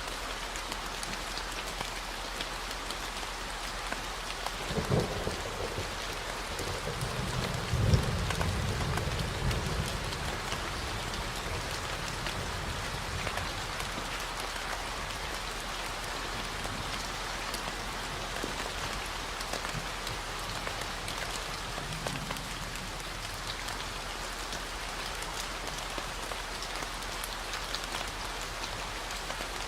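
Steady rain falling, with a thunder crack about five seconds in and a rolling rumble of thunder around eight seconds, the loudest moment. A steady low 40 Hz gamma-wave hum runs underneath.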